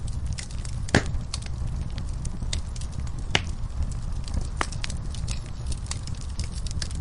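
Wood fire crackling in a fireplace: a steady low rumble of flames with irregular sharp pops and snaps, the loudest about a second in.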